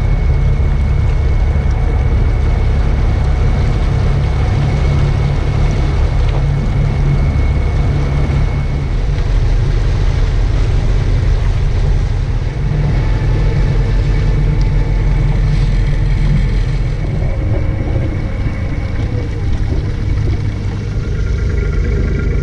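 Steady low rumble aboard a boat under way, with a faint steady whine on top.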